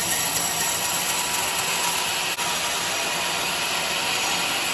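Band sawmill running and cutting through a teak log: a steady, loud hiss of sawing with a faint hum from the machine.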